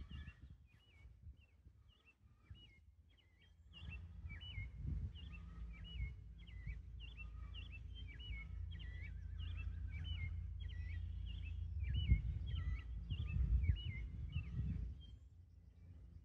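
A songbird chirping outdoors, short sharp notes repeated about twice a second, over a low, gusting rumble of wind on the phone's microphone.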